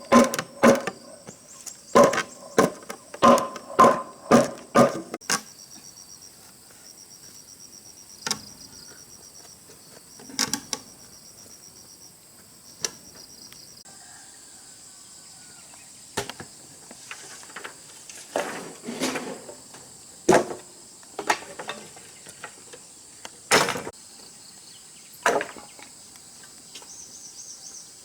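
A hand tool striking wood, about eight quick blows in the first five seconds, then scattered single knocks. Insects chirp behind it in a steady high trill.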